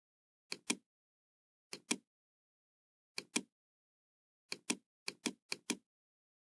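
Computer mouse clicking: six pairs of short, sharp clicks, the second click of each pair the louder, with nothing between them.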